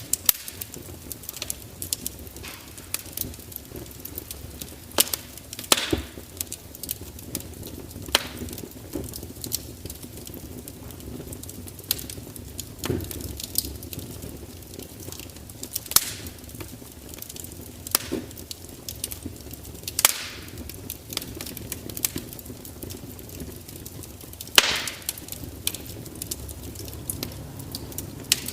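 Wood fire crackling, with irregular sharp pops and snaps over a steady low background, a few of them louder than the rest.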